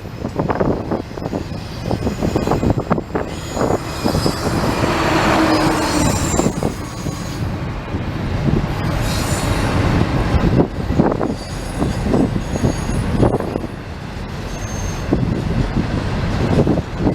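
Intermodal freight cars of a long CN train rolling past, a continuous rumble with wheels clacking irregularly over the rail joints and brief faint high wheel squeals.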